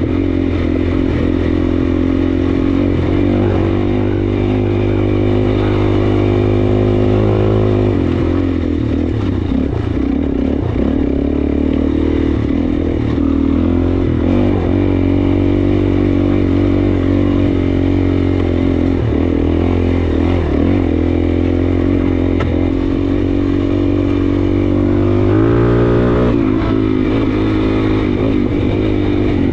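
Suzuki DR-Z400S single-cylinder four-stroke dual-sport engine running under way. Its note shifts about eight seconds in and climbs as it revs up near the end.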